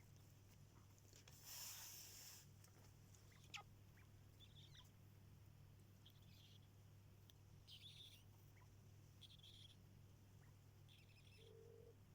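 Quail giving soft, short, high peeps every second or two. There is a brief rustle near the start and a single click, over a faint low hum.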